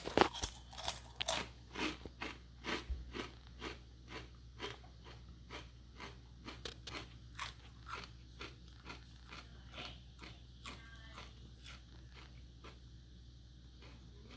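Mouth chewing a kettle-cooked potato chip: crisp crunches about twice a second that grow fainter as the chip is chewed down.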